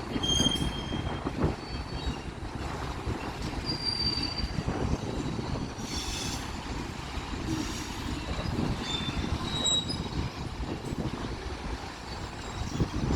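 Freight train cars rolling past, a steady rumble with occasional knocks and several brief high-pitched wheel squeals.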